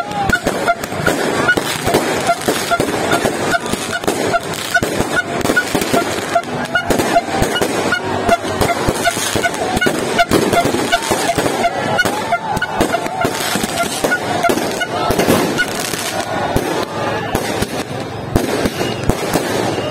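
Fireworks popping and banging in quick irregular succession, with a horn tooting in short repeated blasts over them through the first half and more wavering horn tones later.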